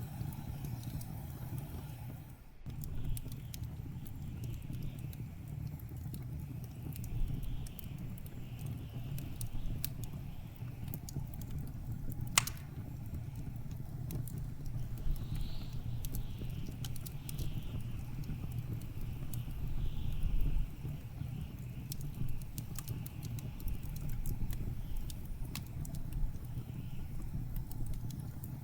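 Blizzard wind blowing with a steady low rumble and a faint wavering whistle, over a wood fire crackling with scattered small pops. One sharper pop comes about twelve seconds in.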